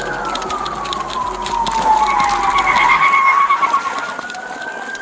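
Police car sirens wailing, with two sirens overlapping: one slides slowly down in pitch while the other holds and then climbs again.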